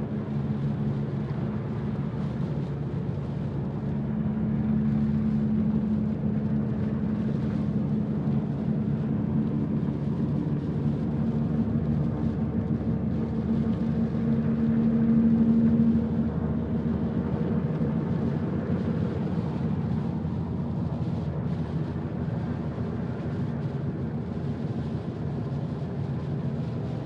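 Car driving on snow with chains on its tyres: a steady engine hum and road noise. The engine note swells a little and then drops back abruptly a bit past halfway.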